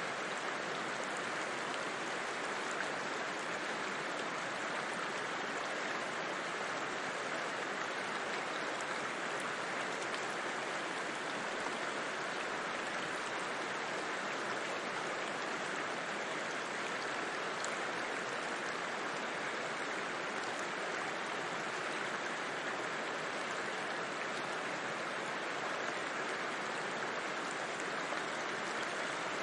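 Steady rushing and babbling of a river flowing over rocks, an even, unbroken water noise.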